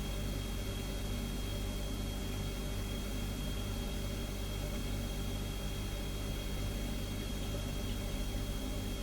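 Refrigerator humming steadily: a low, even hum with a thin high whine above it and a soft hiss.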